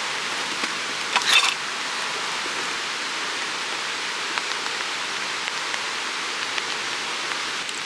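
Steady rushing noise of running water, with a brief louder rush about a second and a half in.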